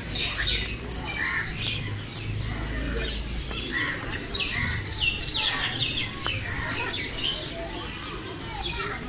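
Many birds chirping and squawking in quick, overlapping short calls.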